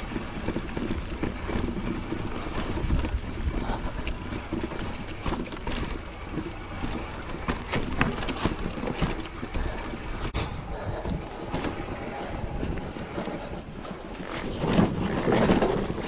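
Mountain bike riding over a rough dirt trail: a steady rumble of tyres and wind on the microphone, with frequent sharp clicks and rattles from the bike.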